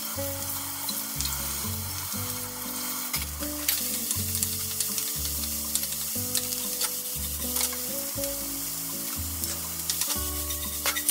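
Diced sausage, onion and carrot sizzling in a frying pan, stirred with a wooden spatula that clicks and scrapes against the pan now and then.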